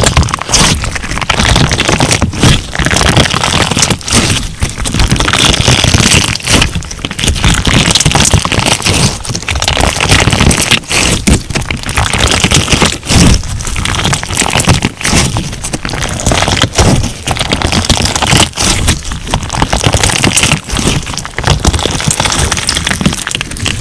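Crunch slime being squeezed and kneaded by hand, giving dense, continuous crackling and popping with many sharp clicks.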